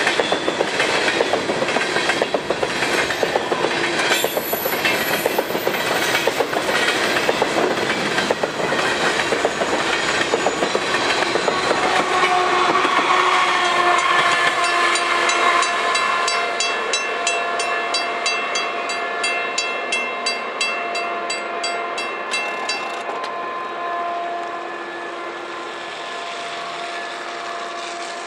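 Freight train of empty potash cars rolling past, wheels clicking rapidly over the rail joints. About halfway through the clatter fades and steady ringing tones take over, with a fast high ticking for several seconds before the sound drops away.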